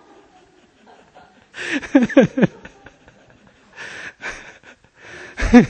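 Breathy chuckling laughter in short bursts with falling pitch, about one and a half seconds in and again near the end, with a breathy exhale between.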